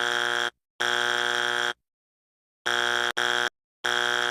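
Electronic buzzer alarm sound effect: a steady buzzing tone of one pitch, sounding in about four blasts of roughly a second each, with dead silence between them.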